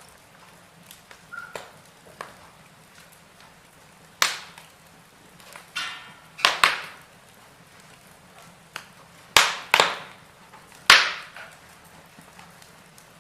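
Wood fire in a fireplace crackling, with faint ticking and several sharp, loud pops from the burning logs, the loudest about four, six and a half, nine and a half and eleven seconds in.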